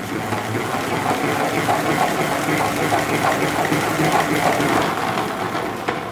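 Electric blender running steadily as it purees fresh spinach leaves with olive oil, then cutting off suddenly.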